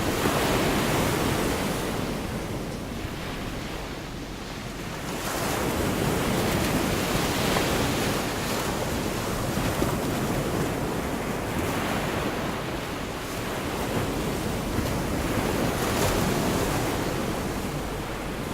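Gulf of Mexico surf: waves breaking and washing up the beach, the wash swelling and easing every few seconds.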